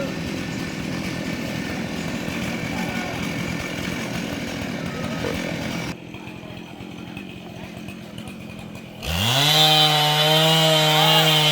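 Gasoline chainsaw running, then about nine seconds in it is throttled up sharply and held at a steady high-revving whine. A quieter stretch comes just before the rev-up.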